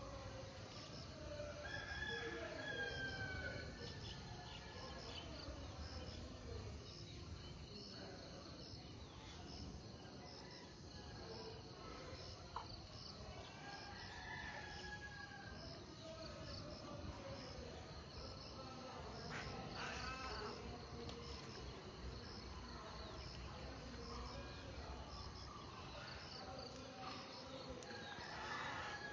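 Faint outdoor bird calls, among them a rooster crowing a few times, over insects chirping in a steady, evenly repeating pulse.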